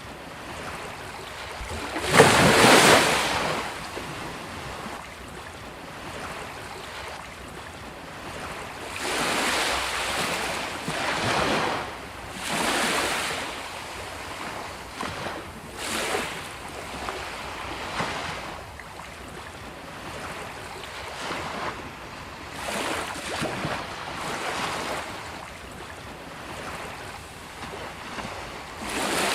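Sea waves breaking and washing up on a beach, swelling and falling back every few seconds, the loudest break about two seconds in.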